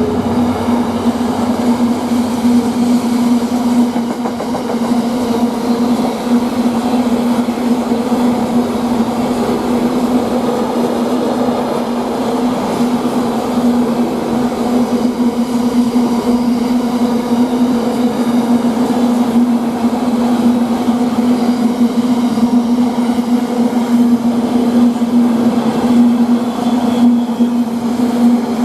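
A long container freight train hauled by a GBRf Class 66 diesel locomotive rolling steadily through the station. Its wagons give a continuous loud wheel-on-rail rumble with a steady droning hum.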